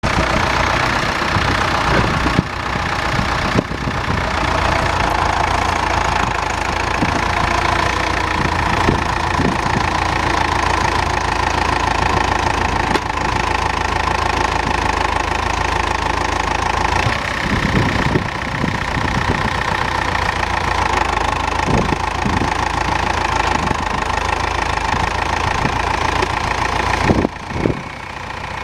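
Case International 1394 tractor's diesel engine running steadily, with a brief dip in level near the end.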